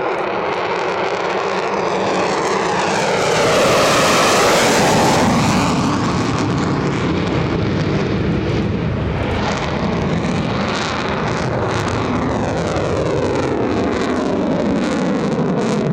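Military fighter jet flying past, its engine noise swelling to its loudest about four seconds in, with the pitch dropping as it goes by, then continuing as a steady rumble.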